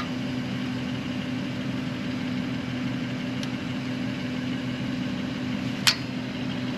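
An engine idling steadily, with a sharp metallic clank about six seconds in.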